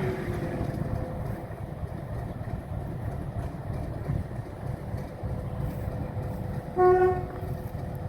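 Alco RS8 diesel locomotive running with a steady low rumble while shunting. About seven seconds in comes one short toot of its horn, the loudest sound here.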